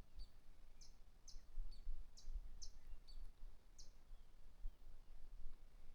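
A bird singing faintly: a repeated phrase of two short high downslurred notes followed by a lower note, 'ting, ting, dun', about two notes a second.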